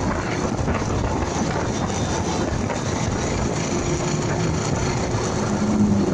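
Motorcycle under way: steady engine, wind and road noise picked up by a dashcam microphone, with a faint engine note that grows clearer after about four seconds.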